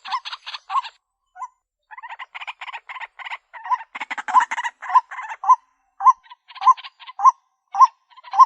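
White-breasted waterhen calling over and over, a lure-call recording: harsh rasping croaks with a clearer, rising 'kwak' note about twice a second. The calling breaks off briefly about a second in and resumes at about two seconds.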